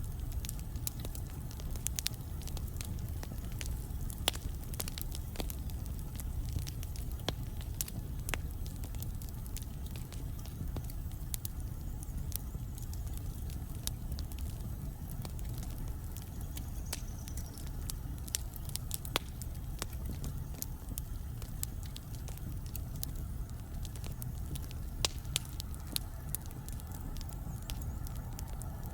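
Wood fire burning in a fireplace: a steady low rumble of flame with irregular crackles and pops from the burning logs.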